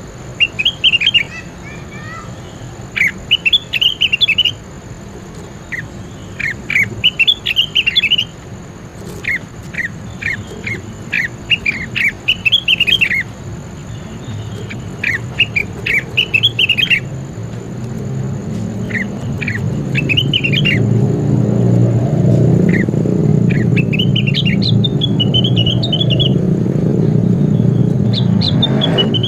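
Leafbird (cucak wilis) singing in short, quick phrases of chirping notes every second or two. From about halfway, a low rumble swells in under the song and becomes the loudest sound.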